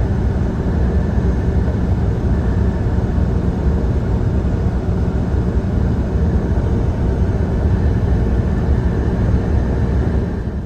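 Semi-truck engine and road noise heard inside the cab while driving at speed: a steady, deep rumble.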